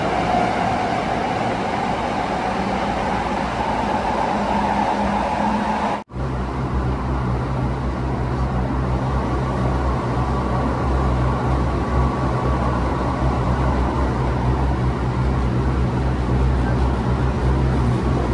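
7000 series third-rail electric train running, heard from inside the car. For the first few seconds a high whine rises slightly over the running noise. After a cut, a steady deep rumble of the train at speed follows, with a faint high tone above it.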